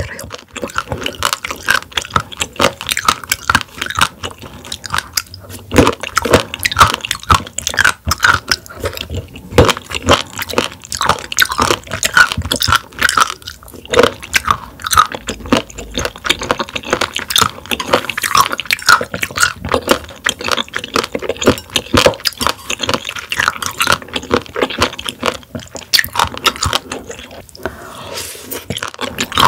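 A person chewing raw warty sea squirts (Styela plicata) close to the microphone: a dense, unbroken run of sharp clicking bites and mouth sounds.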